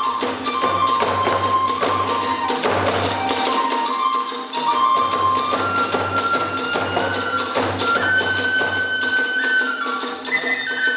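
Kagura hayashi music: a bamboo flute melody held in long notes that step higher through the passage, over fast, steady strikes of drums and small hand cymbals.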